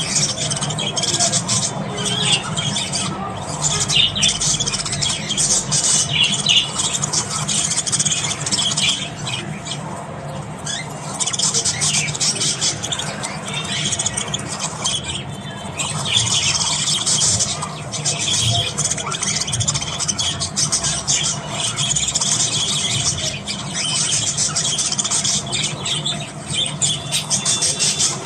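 Budgerigars chattering and warbling without pause: dense high-pitched chirps, squeaks and squawks rising and falling in busier stretches, over a steady low hum.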